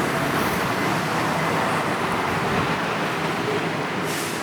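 Steady road traffic noise from passing vehicles, with a short hiss about four seconds in.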